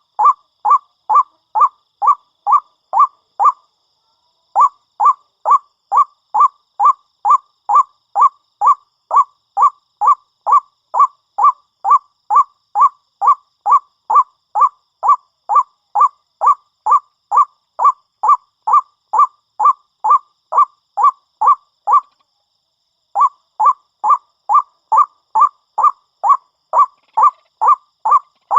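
White-breasted waterhen (ruak-ruak) calling: one short, identical note repeated in a steady series a little over twice a second. The series breaks off twice for about a second.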